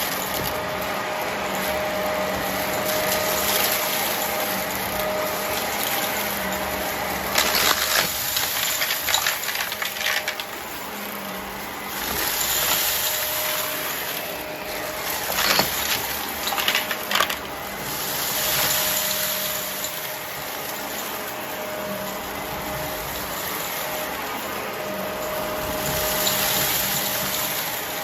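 Vacuum cleaner running steadily with a constant motor hum, swelling and easing about every seven seconds as it is pushed back and forth. Bursts of crunchy crackling come twice, about a third of the way in and again a little past the middle, as debris is sucked up.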